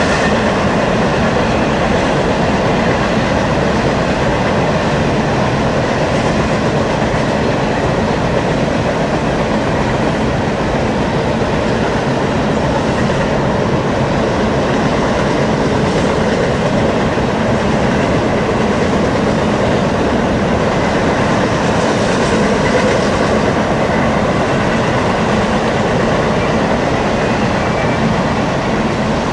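A train's cars rolling steadily past on the rails, a continuous loud rumble and rattle of wheels on track.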